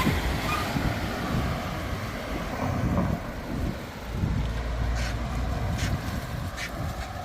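Wind buffeting the microphone: an uneven low rumble that swells and falls, with a few faint clicks in the second half.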